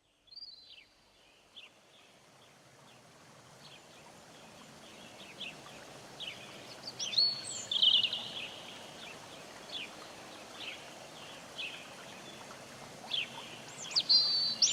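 Birds chirping outdoors: a string of short, high, down-slurred notes, scattered and some louder about halfway and near the end, over a steady background hiss that fades in at the start.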